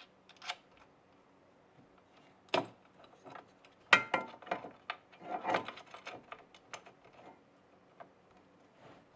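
Small metal hardware clicking and clinking in the hands as a flat washer, lock washer and nut are fitted onto a carriage bolt through a miter saw mounting bracket. The sharpest knock comes about 4 seconds in, with lighter clatters around it.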